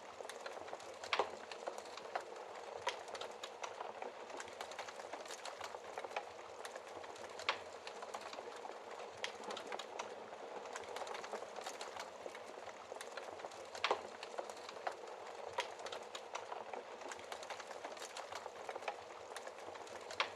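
Wood fire in a fireplace crackling: a steady soft hiss of burning with many irregular sharp pops and snaps, a few louder pops standing out.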